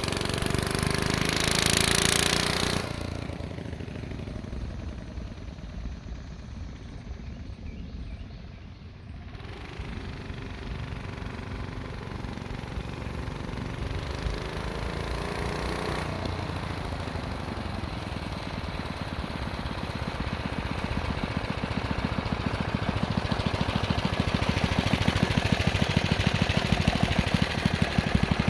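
Tecumseh HS40 4 hp single-cylinder engine of a 1969 Lil Indian mini bike running, its pitch rising and falling. It is loud at first, drops off sharply about three seconds in, then grows steadily louder toward the end.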